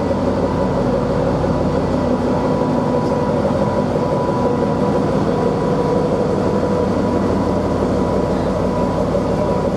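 SN61 diesel railcar's engine running steadily, with a constant hum and a few steady whining tones.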